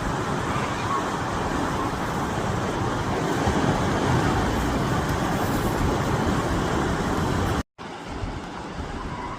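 Steady road-traffic noise of vehicles going past, as a continuous rushing sound. It cuts out abruptly for a moment near the end, then comes back quieter.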